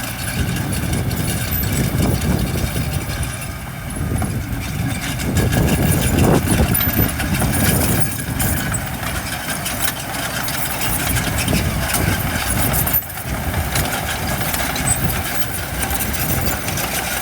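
Diesel engine of heavy earthmoving machinery running steadily, with a louder swell about six seconds in and a brief dip near the end.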